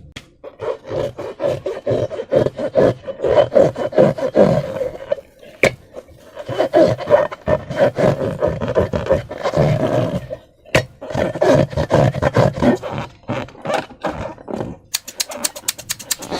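Slime being squeezed and worked by hand: dense wet crackling and rubbing in long stretches, broken by two short pauses, ending in a quick run of sharp clicks.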